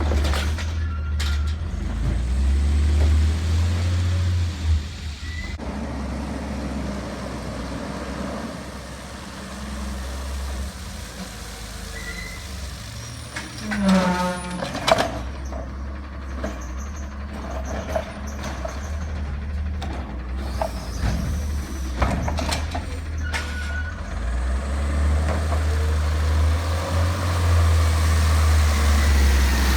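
Garbage truck working a recycling route: its engine runs with a low rumble that swells near the start and the end. A few sharp knocks and a brief whine come about halfway through.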